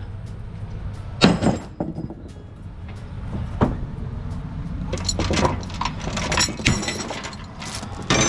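Sharp metallic clanks and a spell of rattling over a steady low engine idle, a few knocks early and a burst of clatter from about five seconds in.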